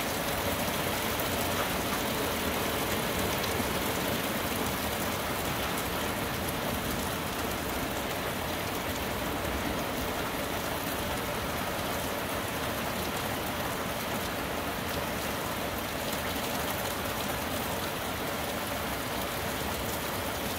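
Steady heavy rain falling through a Benguet pine forest onto the trees and leaves during a tropical storm, an even hiss that eases slightly after the first few seconds.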